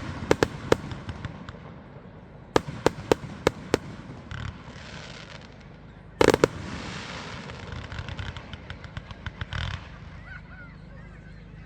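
Fireworks display: quick runs of sharp bangs from bursting shells near the start and again around three seconds in. The loudest burst comes about six seconds in and is followed by crackling that fades, with another burst shortly before ten seconds.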